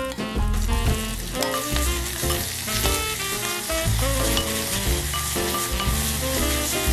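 Food sizzling in a hot pan, frying steadily.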